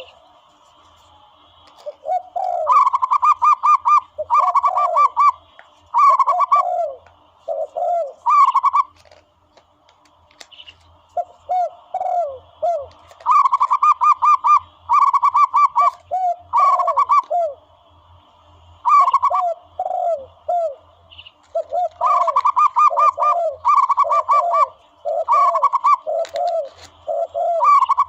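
Zebra doves calling: bouts of rapid trilled cooing notes alternating with lower, short down-slurred coos, repeating over and over with brief pauses between bouts.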